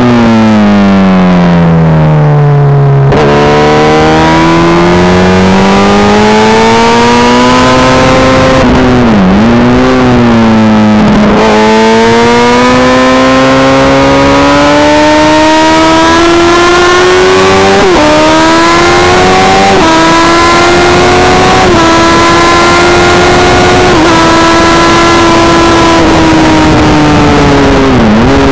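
Honda CBR Fireblade's inline-four engine at speed on track, recorded onboard. The pitch falls steadily for the first three seconds, climbs, dips and recovers twice about a third of the way in, then rises again through a run of short stepped drops as the gears change, before easing off twice near the end.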